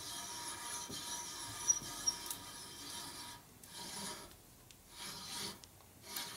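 Adjustable hand reamer scraping as it is turned through a bore in a 1965 Harley panhead rocker arm assembly, taking a light cut. There is a steady rasp at first with two sharp clicks near two seconds in, then the scraping comes in swells about once a second.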